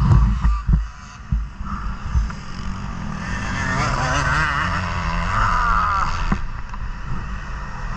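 KTM 250 motocross bike engine revving hard, its pitch wavering up and down with the throttle, growing louder and then dropping off sharply about six seconds in. Low thumps in the first second or so.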